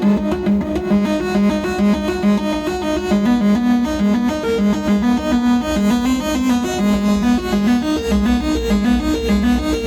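Eurorack modular synthesizer playing a fast, repeating sequence of short pitched, keyboard-like notes. A low bass tone comes in about eight seconds in.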